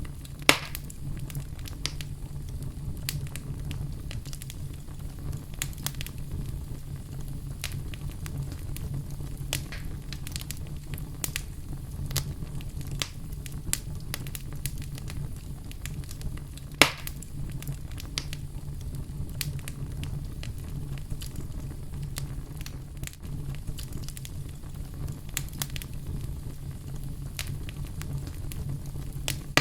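Wood fire crackling in a fireplace: a steady low rumble under constant small crackles, with two loud sharp pops, one right at the start and one about halfway through.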